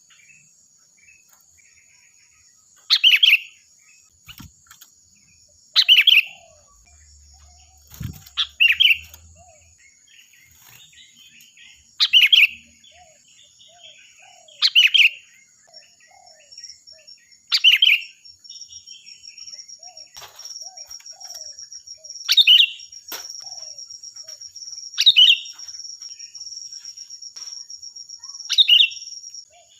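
Sooty-headed bulbul (kutilang) singing loud, short, bright phrases, one about every two to three seconds. Underneath runs a thin steady high-pitched tone, which grows stronger in the second half, and there are faint softer chirps between the phrases.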